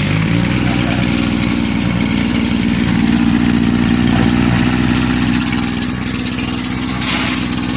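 Small petrol engine of a motorized sprayer running steadily, just started on choke after its primer bulb was pumped.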